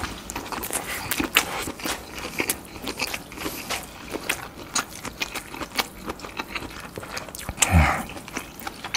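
Close-miked chewing of garlic-butter grilled lobster tail meat: wet mouth smacks and many small sticky clicks. A brief low hum from the eater comes near the end.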